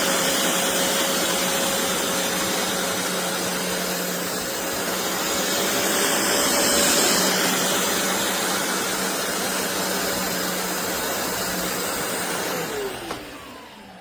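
BISSELL Revolution HydroSteam Pet carpet cleaner's suction motor running steadily with a steady hum and whine. About 13 seconds in it is switched off, and the whine falls in pitch as the motor spins down.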